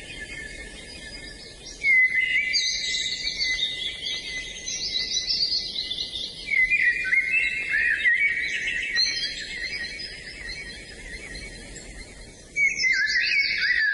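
Songbirds singing: bursts of rapid, warbling whistled phrases that swell about two seconds in, again about halfway through, and once more near the end.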